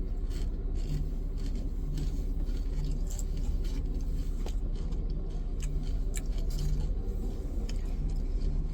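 Steady low rumble with scattered light clicks and rustles of takeout food and its packaging being handled.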